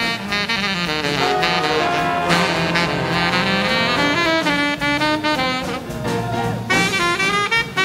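Big band playing hot swing-era jazz: saxophones and brass in short punchy ensemble figures over a rhythm section.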